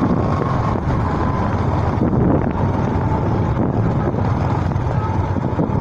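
Manual motorcycle riding along in fifth gear: a steady engine drone mixed with wind noise on the microphone.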